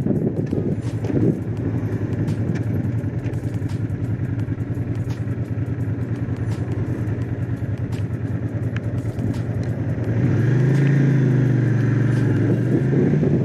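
Honda CX500's liquid-cooled V-twin engine running steadily under way, a low even hum; about ten seconds in the throttle opens and it gets louder and a little higher in pitch.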